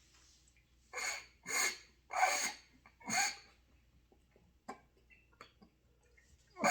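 Four short, airy puffs of breath blown through a trumpet with no note sounding, followed by a few faint clicks.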